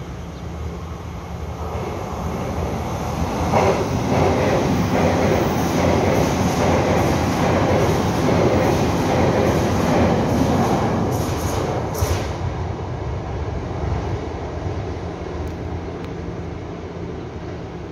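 Taiwan Railway TEMU2000 Puyuma tilting express train passing through the station at speed, its wheels clacking in a steady rhythm over the rail joints. The noise builds from about two seconds in, is loudest for several seconds mid-way, and fades after about twelve seconds.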